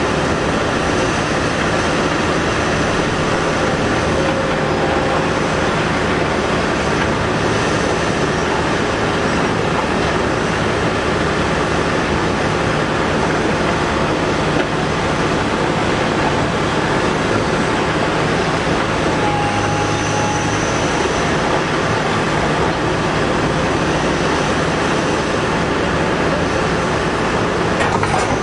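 Caterpillar 245B hydraulic excavator at work loading trucks, its large diesel engine running steadily and loudly under load.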